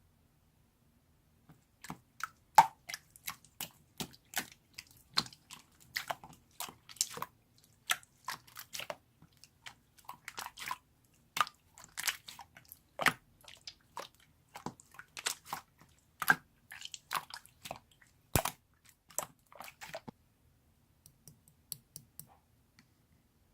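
Slime being squeezed and played with by hand: quick, irregular sticky pops and crackles, several a second. They stop about 20 seconds in, with a few scattered pops near the end.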